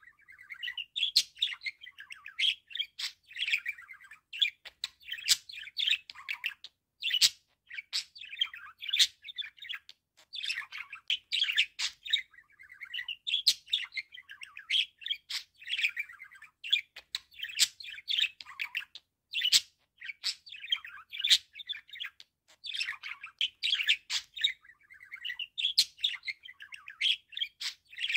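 Budgerigar warbling and chattering steadily: a fast run of chirps, twitters and sharp clicks with short pauses between phrases.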